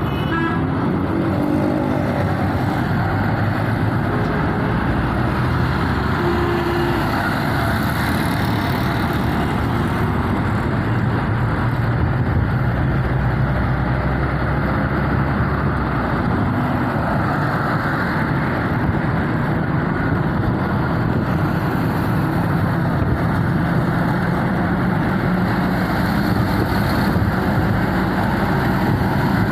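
Motor vehicle engines running steadily, a continuous low rumble without a break.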